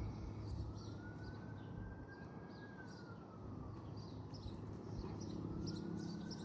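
Faint distant siren wailing slowly up and down, with small birds chirping.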